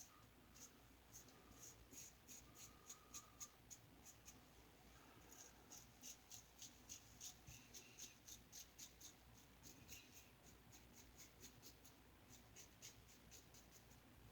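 Razor blade scraping through light stubble in quick, faint strokes, several a second with short pauses between runs.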